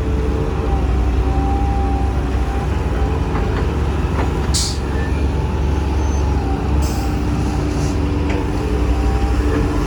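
Heavy diesel earthmoving machinery, excavators and dump trucks, running steadily with a deep engine drone and a slightly wavering engine hum. A short hiss of air cuts in about halfway through, and a fainter one follows a couple of seconds later.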